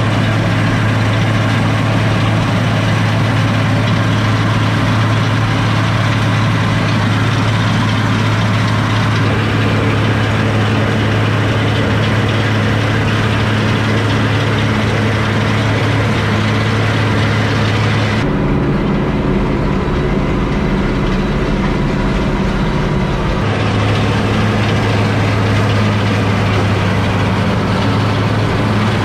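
International Harvester 1086 tractor's turbocharged six-cylinder diesel running steadily while pulling a New Holland 488 hay mower-conditioner. For about five seconds in the second half the engine's sound changes, then it returns to the same steady note.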